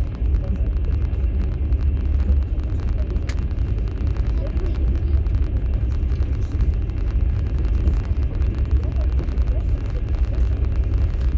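Inside a moving platskart sleeper carriage of a Russian passenger train: a steady low rumble of the running gear, with faint clicks and knocks from the wheels on the track and one sharper knock about three seconds in.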